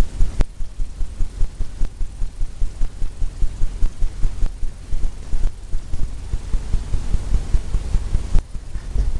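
Paintbrush striking and scrubbing wet oil paint on a stretched canvas, a steady run of quick low thumps at about five a second, with a short break about eight and a half seconds in.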